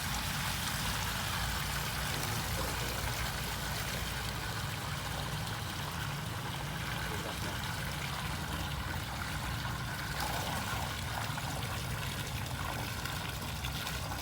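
Gasoline draining in a steady trickle into a basin. The fuel is being drained because it contains water.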